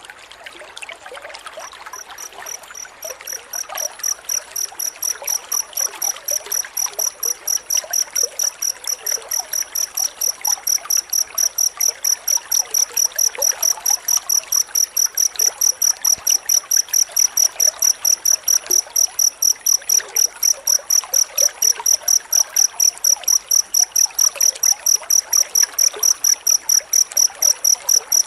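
Cricket chirping in a fast, even train of high-pitched chirps, about three a second, starting about two seconds in and growing louder, then holding steady.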